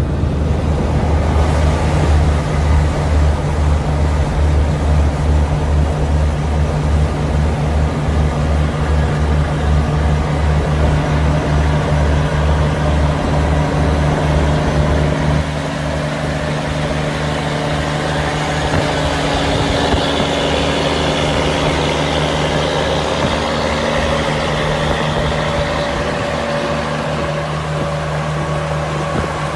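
Diesel truck engine running at idle with a steady, pulsing low throb. About halfway through the sound drops abruptly and goes on quieter and smoother.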